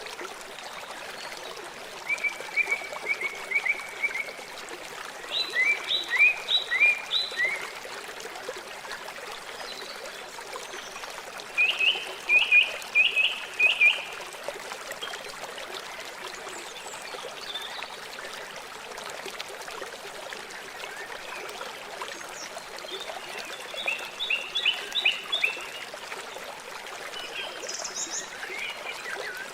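River water flowing in a steady rush. Four times, an unseen animal breaks in with a quick run of five to eight short, high calls; these calls are louder than the water.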